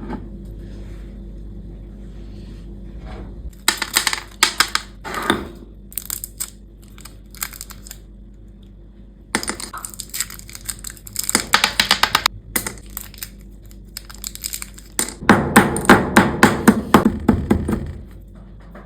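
Hard small objects rattling and clicking in three spells of rapid clatter, over a low steady hum.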